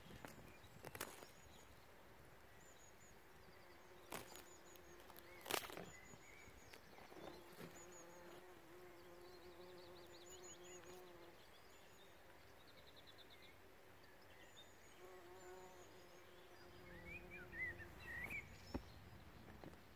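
Faint bees buzzing among flowering faba beans, a low hum that swells as they fly close and fades again, twice. Small birds sing high chirps and trills in the background, and a few sharp clicks stand out early on.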